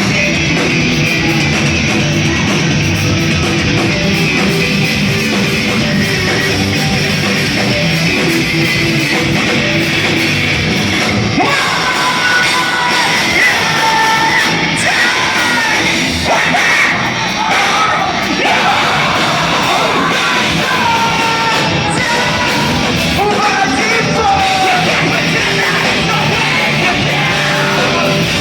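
Post-hardcore band playing live and loud in a large hall, with electric guitars. Yelled and sung vocals come in about eleven seconds in.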